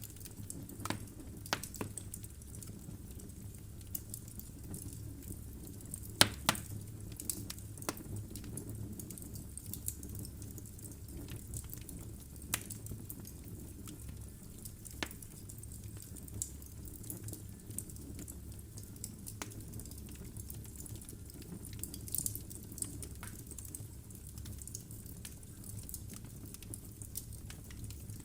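Logs burning in a fireplace, crackling with irregular sharp pops over a low, steady rumble of the flames. The loudest pop comes about six seconds in.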